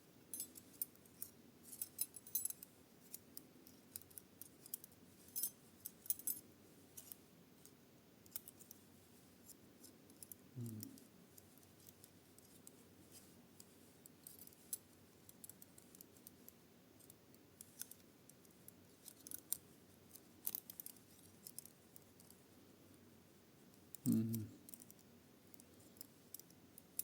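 Small metal puzzle pieces clicking and scraping against each other as they are twisted and worked by hand, in scattered faint clicks, with a short low hum from the person twice, about ten seconds in and near the end.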